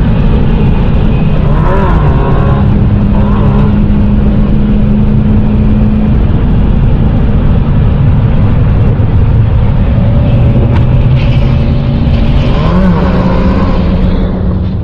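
Motorcycle engine running loud and fairly steady, its pitch shifting briefly about two seconds in and again near the end before it fades out.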